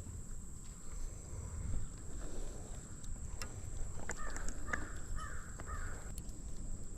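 A bird gives about four harsh calls in quick succession about four seconds in, over a steady low outdoor rumble.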